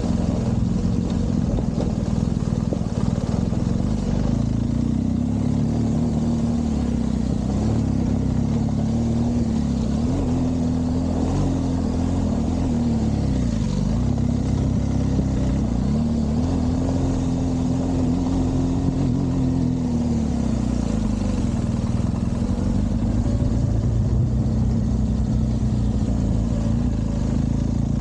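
BMW R1200GS's flat-twin boxer engine running under varying throttle as the bike is ridden around a motocross track, its note rising and falling several times.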